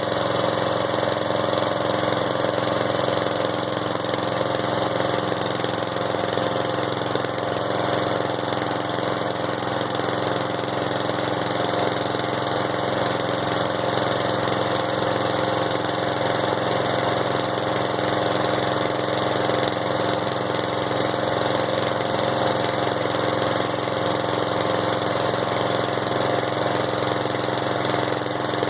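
Riding lawnmower engine running steadily at an even speed, with no change in pitch, while its fuel tank is down to gas vapor.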